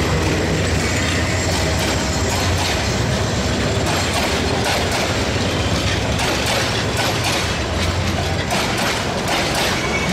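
Metre-gauge passenger coaches of an express train rolling past close by: a steady rumble with the wheels clacking over rail joints, the clacks coming thicker in the second half.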